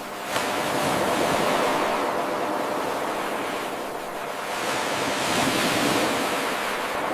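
Ocean surf washing onto a shore in two swells of noise about four seconds apart. An abrupt jump in level shortly after the start is where the 8-second wave recording loops back to its beginning.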